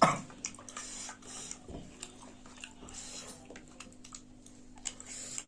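Close-up eating sounds: chewing with many small mouth clicks, and a louder knock right at the start.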